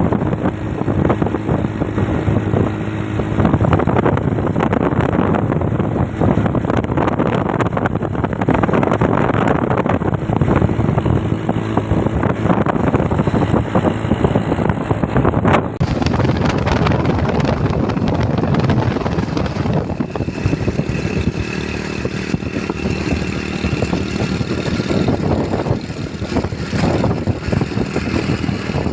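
Motorcycle engine running at riding speed, with wind rushing over the microphone. The sound changes abruptly about sixteen seconds in.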